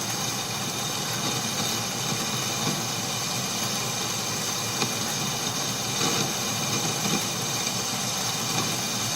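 Atlas metal lathe running steadily while a small boring bar cuts hot-rolled mild steel, an even machine hum and cutting noise with a few faint ticks.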